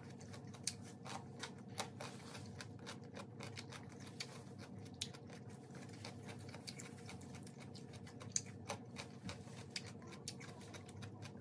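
Close-miked chewing of crunchy raw vegetables: crisp, irregular crunches several times a second.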